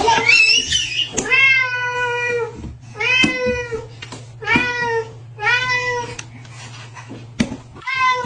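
A series of about five drawn-out meows, each roughly a second long and falling in pitch at the end, with a shorter one near the end. A steady low hum runs underneath.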